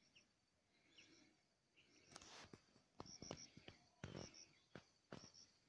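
Faint bird chirps: short, high notes in pairs and threes, repeating about once a second. From about two seconds in, several louder sharp clicks and rustles cut across them.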